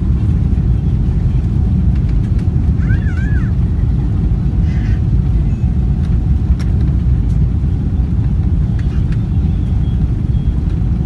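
Boeing 777 at takeoff: a loud, steady low rumble of jet engines and airframe that holds level throughout.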